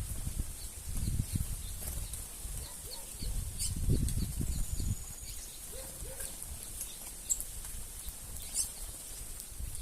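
A flock of small birds with repeated bursts of wing flapping and scattered short high chirps.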